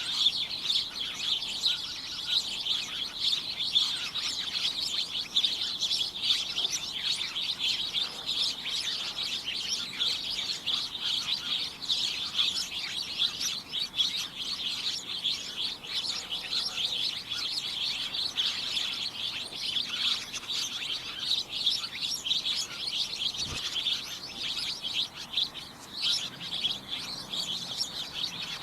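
A flock of small birds chirping and tweeting all at once, a dense, continuous chatter of many overlapping high-pitched calls with no pauses.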